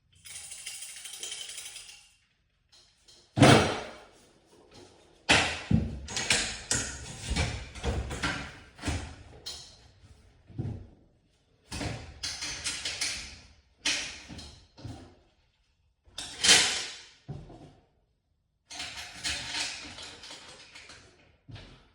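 Metal clanking and rattling from work on garage door hardware: irregular sharp knocks, some followed by a second or two of jingling clatter, with short pauses between them.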